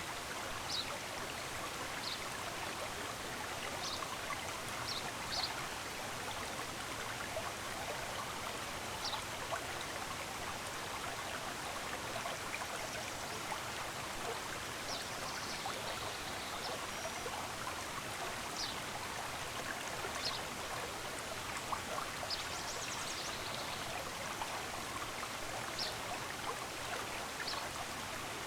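Running stream water, a steady rushing, with short high bird chirps scattered over it every second or two.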